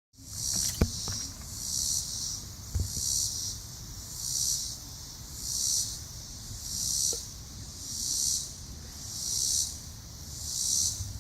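Summer insect chorus: a high-pitched buzzing that swells and fades in regular pulses about once every second and a quarter. A sharp click about a second in.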